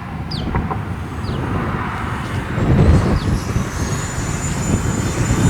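Electric ducted-fan model F-4 jets spooling up for takeoff: a rising rush of fan noise with a thin high whine that climbs for about a second and a half, then holds steady.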